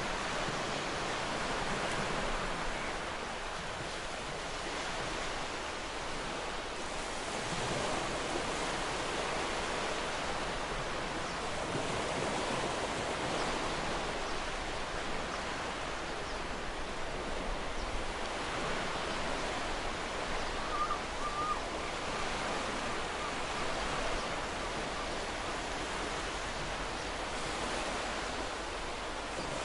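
Ocean waves breaking and washing up on a beach: a continuous rushing surf that swells and eases every few seconds.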